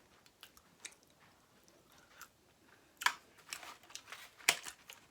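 Close-up eating sounds: quiet chewing and mouth clicks, then two sharp crunches about three and four and a half seconds in.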